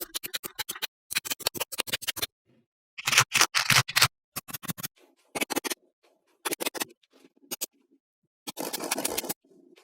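Small magnetic balls clicking and rattling against each other in quick bursts of sharp clicks, with short gaps between.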